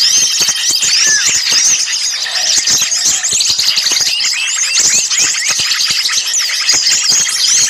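Dense chorus of many small songbirds chirping, trilling and whistling over one another, busy and unbroken. It is the noisy, excited small-bird calling played as a lure to draw wild birds in.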